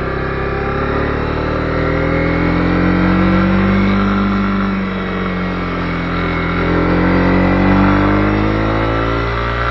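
Honda CB250R's single-cylinder engine running under way, the revs rising over the first few seconds, easing off around the middle and climbing again near the end.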